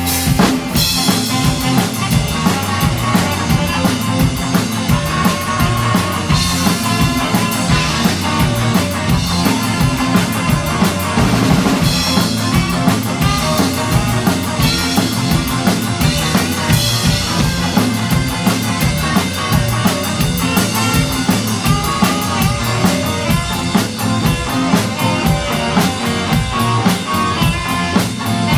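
Live band playing an instrumental passage, the drum kit keeping a steady, driving beat.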